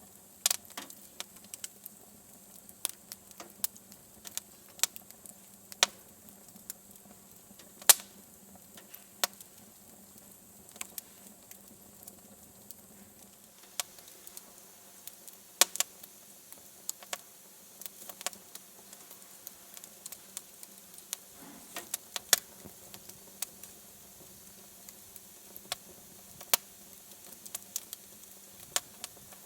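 Wood fire crackling in a fireplace: irregular sharp snaps and pops, one louder crack about a quarter of the way in, over a faint steady hum.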